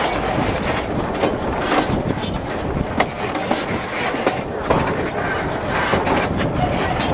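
Narrow-gauge train hauled by a Px48 steam locomotive running along the track, heard from aboard one of its carriages: a steady rumble and rattle of wheels and carriages on the rails, with irregular clicks and knocks.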